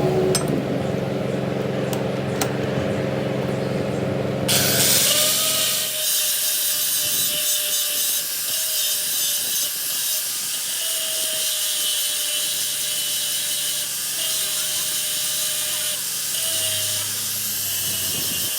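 A workshop power tool running: a steady low machine hum, then about four and a half seconds in a loud harsh hiss sets in and continues, with a tone that rises briefly every couple of seconds.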